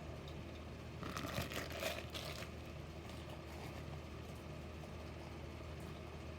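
Faint crinkling and light clicks of something being handled, from about a second in to about two and a half seconds in, over a low steady hum.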